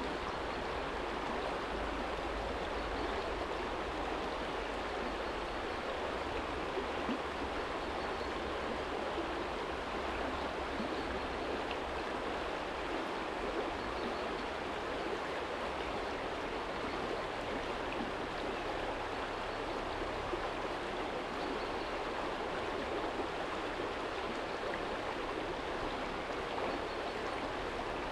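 Small shallow stream flowing steadily over stones, a continuous even rush of water, with a faint low rumble beneath it.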